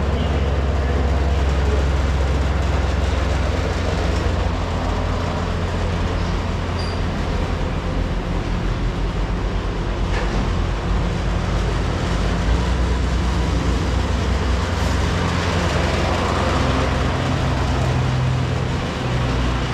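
A steady, loud, low mechanical rumble, like an engine or motor running.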